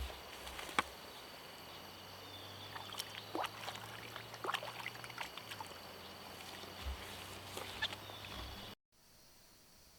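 Scattered light knocks and clicks over a steady high insect drone. The sound cuts off abruptly near the end to a quieter insect background.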